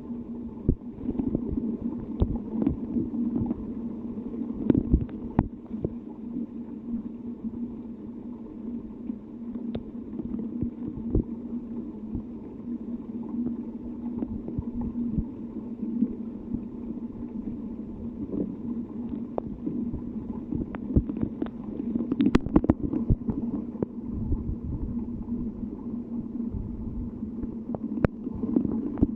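Rain and wind: a steady low rumbling with many irregular sharp ticks of raindrops landing close by, thickest about three quarters of the way through.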